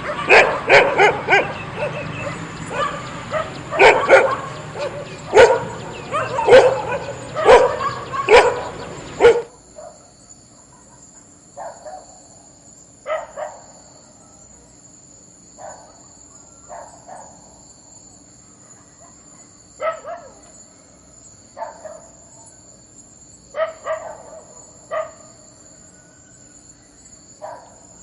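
Dogs barking loudly and in quick succession, several barks overlapping, until an abrupt cut about nine seconds in. After that, single barks and short pairs of barks come every second or two over a steady high-pitched drone.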